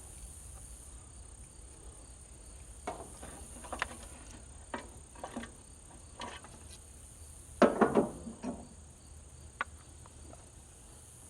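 Crickets chirring steadily in a high-pitched drone, with scattered short knocks and a louder clatter about eight seconds in.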